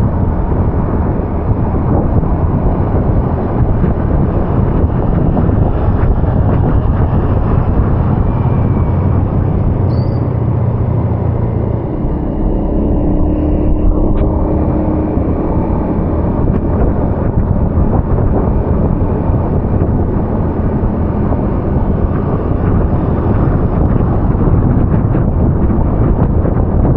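Steady, loud traffic and vehicle noise on a rain-wet city street, a continuous low rumble without distinct events.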